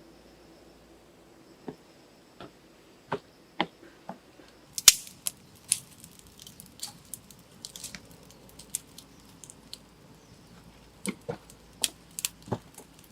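A series of irregular sharp clicks and knocks, the loudest about five seconds in and a quick cluster near the end, over a faint steady high-pitched hum.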